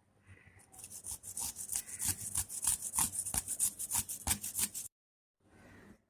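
Rapid, even scraping strokes, about four a second, for about four seconds, then stopping abruptly; a shorter, quieter rub follows near the end.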